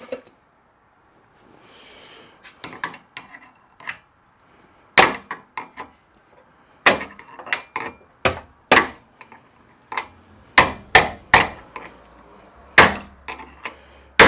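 Repeated hammer blows on a Jeep XJ door hinge, irregularly spaced and sharp, driving out an old hinge pin. A few lighter taps start them off, then come heavier strikes in quick clusters.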